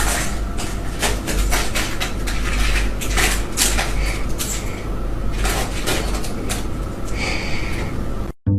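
Busy household clatter: many quick knocks and rattles, like things being bumped and banged about, over a low rumble, cutting off suddenly just before the end.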